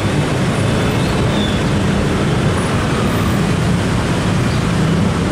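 Dense road traffic: many motorcycle and car engines running together with tyre noise, a steady continuous din.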